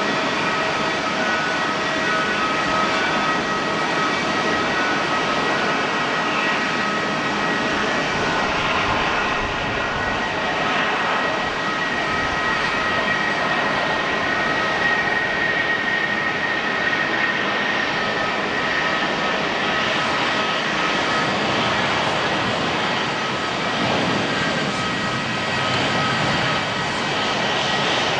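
Airbus A330-300 jet airliner's engines running steadily, a loud roar with a high whine held on top. The whine drifts slightly lower partway through.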